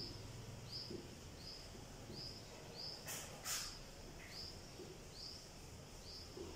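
A small bird chirping faintly, one short high chirp about every 0.7 seconds. About three seconds in, two brief scratches of a marker pen writing on a whiteboard.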